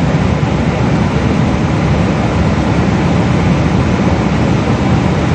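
Steady cabin noise of a Boeing 777 in flight, a continuous low rumble of engines and airflow heard from inside the passenger cabin.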